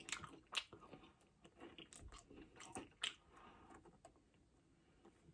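Faint close-up mouth sounds of chewing and biting crispy food, with a few sharp crunches, the loudest about half a second in and again about three seconds in.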